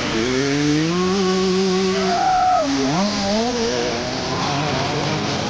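Dirt bike engine revving hard on a motocross track: the pitch climbs as it accelerates, holds, drops off about halfway through and climbs again. Other bikes run fainter underneath.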